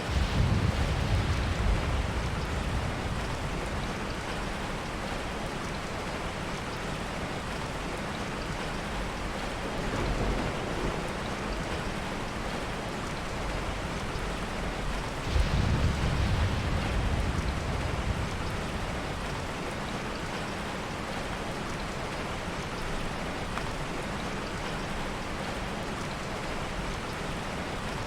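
Steady heavy rain, with low rumbles of thunder that start suddenly at the very beginning and again about fifteen seconds in, each fading over a few seconds, and a weaker rumble about ten seconds in.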